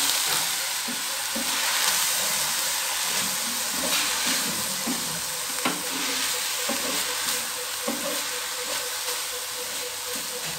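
Grated coconut sizzling in a hot pan with milk while a spatula stirs it, with scattered scrapes and taps of the spatula against the pan. The milk is cooking down into the coconut.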